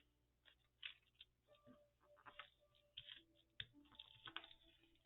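Faint rustling of paper and small irregular taps and clicks as paper pieces are handled and glued down.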